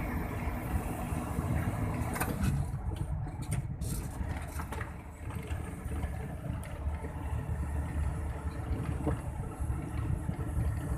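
Mitsubishi Fuso truck's turbocharged diesel engine running on the move, with the engine note changing about two seconds in.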